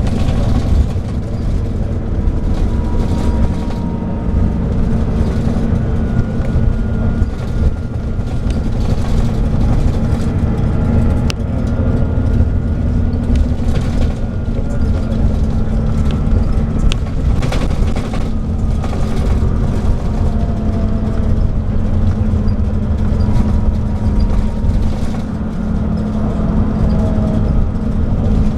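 Scania K340IB bus with its Scania DSC9 diesel engine running on the move: a steady low drone with a faint whine that slowly rises and falls in pitch, and a few light knocks and rattles.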